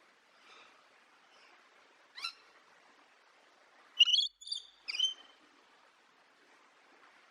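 Bird calls: one short call, then three louder calls in quick succession a little past halfway.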